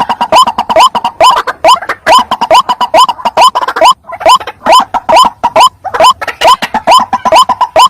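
White-breasted waterhen (ruak-ruak) calling: a loud, fast series of short notes, each rising sharply in pitch, about three a second, with a brief break about halfway. This is the lure call used to attract the birds.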